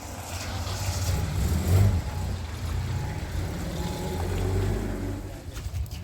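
A car engine running as the car drives, a low hum that swells around two seconds in and then holds fairly steady.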